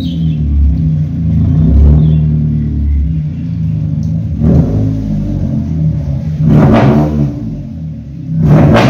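Toyota Corolla Altis engine running at low revs, its exhaust note steady and low, rising in three short revs about four and a half, seven and eight and a half seconds in.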